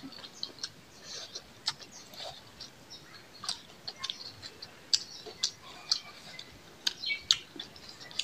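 Close-miked eating sounds from two people eating with their hands: chewing and lip smacking, heard as scattered short wet clicks a few times a second.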